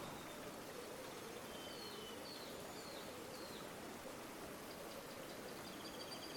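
River water flowing steadily with a low, wavering gurgle. A small songbird calls a few short chirps a couple of seconds in, then a rapid high trill near the end.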